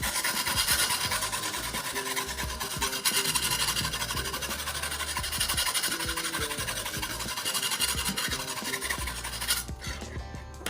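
Knife blade being drawn repeatedly against a sharpener, a continuous rasping scrape of metal on an abrasive in pulsing strokes that stops near the end.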